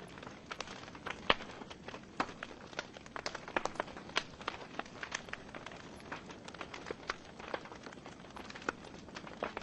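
Wood fire burning in a fireplace, with irregular crackles and pops from the burning logs over a soft steady hiss; one louder pop about a second in.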